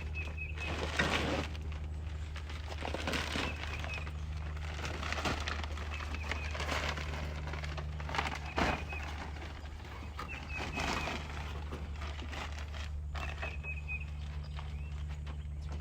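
An engine running steadily at idle, with irregular knocks and rustling every couple of seconds and short high chirps about every three seconds.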